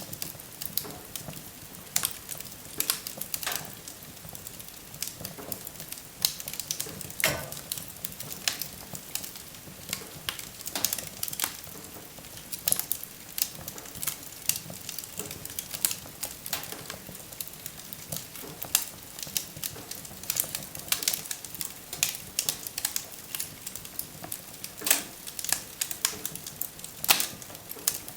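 Wood fire burning in a fireplace: irregular sharp crackles and pops over a steady hiss of the flames.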